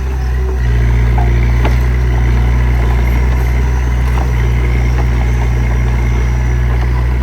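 Small bulldozer's diesel engine running steadily under load, its deep hum growing louder just under a second in, with a few light knocks of the machine working.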